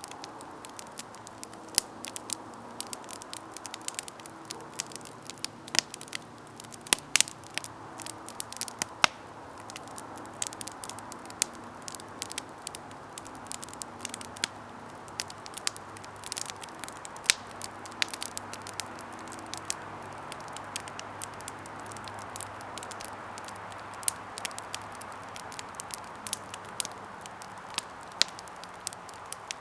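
Campfire burning: wood crackling with frequent sharp, irregular pops over a steady hiss of the flames.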